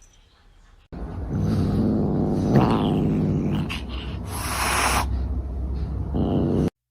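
A cat close to the microphone, making a loud, low rumbling sound that starts suddenly about a second in. It carries two short hissy bursts in the middle and cuts off abruptly near the end.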